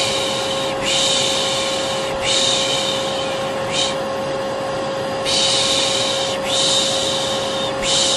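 Vacuum cleaner motor running steadily with a constant whine, overlaid by a person shushing a baby to sleep: repeated 'shhh' hisses, most about a second long with an occasional short one.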